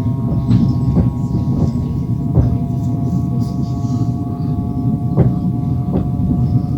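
Passenger train wheels running on the rails, a steady low rumble with sharp clicks every second or so as they cross rail joints. Over it sits a steady metallic ringing of several tones.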